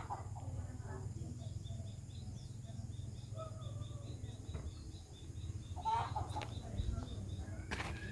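Outdoor birds calling, including a rapid, even run of high chirps lasting a few seconds, with a louder call near the end over a steady low rumble.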